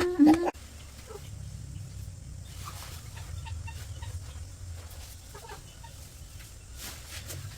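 A child's crying breaks off about half a second in. After that come faint, scattered short animal or bird calls over a low steady rumble.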